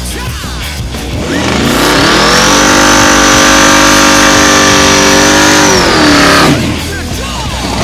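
Supercharged 454 big-block V8 in a first-generation Chevrolet Camaro revs up about a second in and holds high revs for a burnout, the rear tires spinning and smoking. A high steady whine rides on top. The engine drops off sharply near the end.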